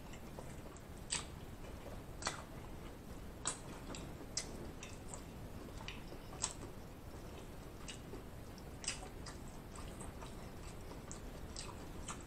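Close-miked wet mouth sounds of chewing lobster tail meat: sharp lip smacks and clicks at uneven intervals, about one a second.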